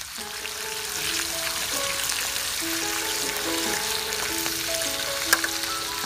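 Skewered small squid sizzling steadily as they fry in hot oil in a wok, with one sharp pop about five seconds in.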